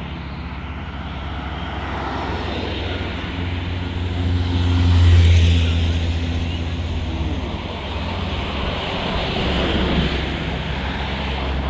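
Street traffic: a heavy motor vehicle's engine drones past close by, loudest about five seconds in, over a steady traffic hum, with another vehicle's pitch falling away near the end.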